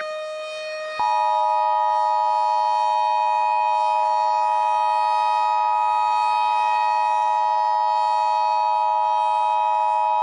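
Emergency Alert System attention signal: two steady tones sounding together, starting about a second in and holding unbroken, over a fainter steady lower tone. It marks the start of an emergency alert broadcast.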